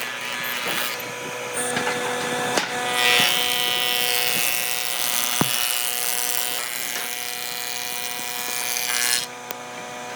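Electric power tool running and cutting into solid wood, with a steady motor whine and a few sharp knocks. It drops away about nine seconds in.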